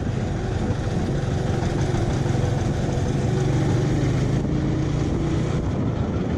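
Car driving along a road: steady engine hum and road noise.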